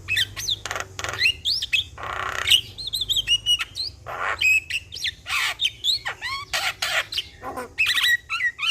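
Javan myna singing energetically. A fast, unbroken run of whistled up-and-down notes is mixed with harsh, scratchy squawks.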